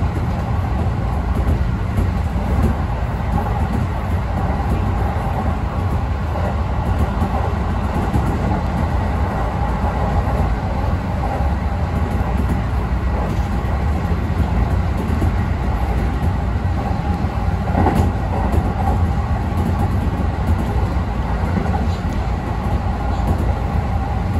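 Kintetsu electric express train running along the line, heard from inside the car: a steady low rumble of wheels and running gear with a faint steady whine over it, and a single sharp click about three-quarters of the way through.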